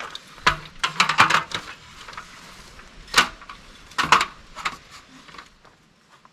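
Folding camp table being set up and adjusted: a run of irregular clicks, knocks and clunks from its frame and legs, the sharpest about three and four seconds in, dying away near the end.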